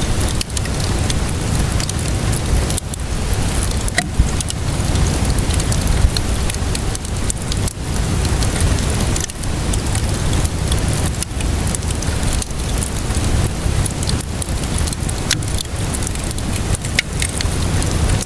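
Wood fire crackling with many sharp pops over a steady hiss of rainfall and a low rumble underneath.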